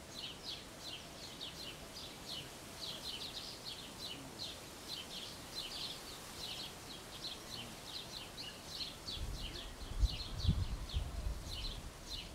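Small birds chirping, a steady run of short, high chirps several times a second. A low rumble comes in about nine seconds in, loudest around ten seconds.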